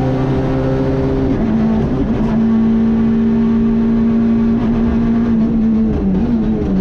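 Citroën C2 R2 rally car's four-cylinder engine heard from on board, held at high revs under load, with a brief dip in pitch about a second and a half in as a gear changes. Near the end the revs begin to rise and fall.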